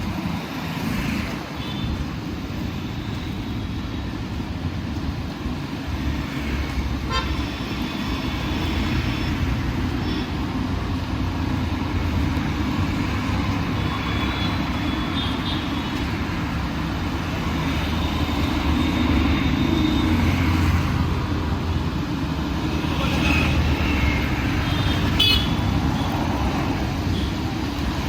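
Steady rumble of busy city road traffic, with vehicle horns tooting several times: about seven seconds in, around the middle and again near the end.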